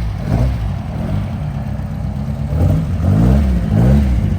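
A car engine running, revved up and down a couple of times.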